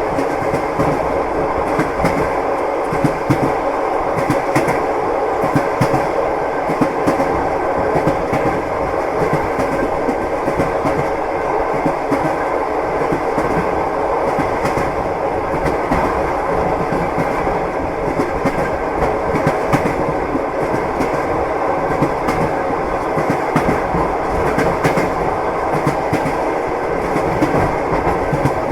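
Passenger train in motion, heard from inside a carriage: a steady rumble of wheels on rails with the clickety-clack of the wheels running over rail joints throughout.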